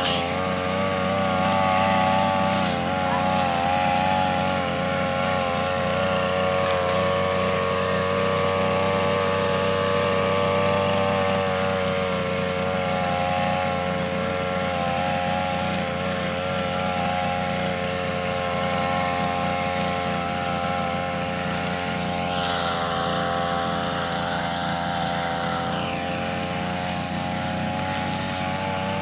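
Two-stroke engine of a Tanaka brush cutter running steadily at a constant speed, its pitch wavering slightly.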